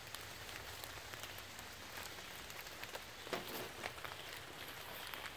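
Light rain pattering and dripping on leaves and the forest floor, a steady hiss sprinkled with small drop ticks, with one soft thud about three seconds in.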